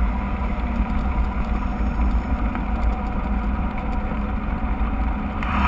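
Steady low rumble of wind buffeting the microphone of a camera riding along on a moving mountain bike, mixed with the bike's rolling noise.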